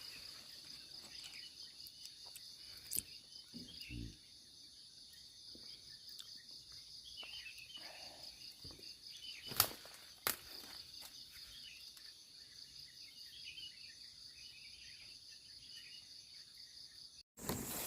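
Insects trilling in a steady, pulsing chorus, with a few sharp taps or knocks now and then. The sound cuts off abruptly near the end.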